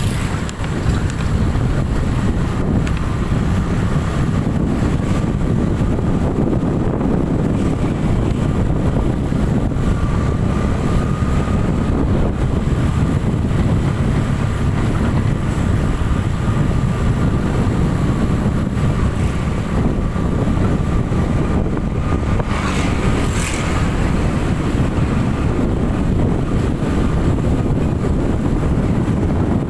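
A vehicle travelling on the road, its steady running and road noise mixed with wind on the microphone, with a faint steady whine throughout.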